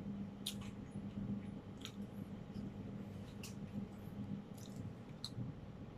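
A person chewing tough, butter-toasted French bread: faint, scattered small moist clicks and crunches from the mouth, over a steady low hum.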